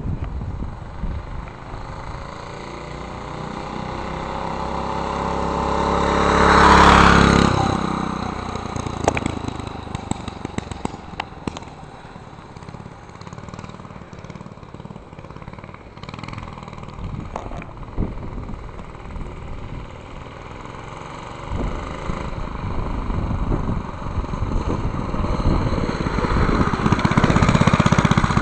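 The 3 hp Briggs & Stratton single-cylinder engine of a 1967 Lil' Indian minibike running under way. It grows louder and passes close about seven seconds in, fades off, and comes back louder near the end.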